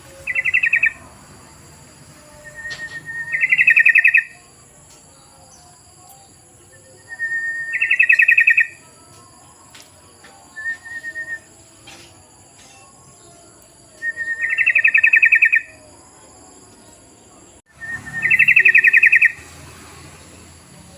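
Yellow-vented bulbul (trucukan) song: a short, loud, bubbling phrase of rapid notes, repeated every three to four seconds, played as a lure call to draw other trucukan to answer.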